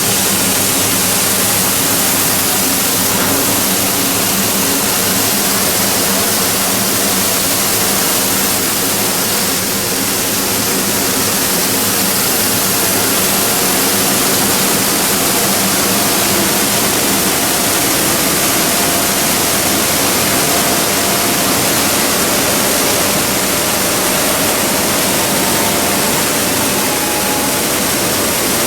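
Machinery of a PE and calcium carbonate pelletizing line running: a loud, steady, rushing noise with a low hum, and a faint higher whine joining in during the second half.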